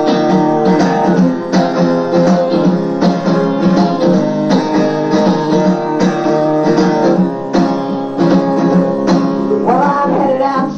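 Acoustic guitar strummed in a steady, even rhythm, the song's instrumental intro before the singing comes in.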